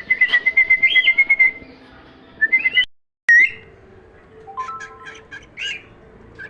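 Small pet bird whistling and chirping: a quick run of repeated high notes in the first second and a half, a brief break about three seconds in, then scattered short chirps and whistles.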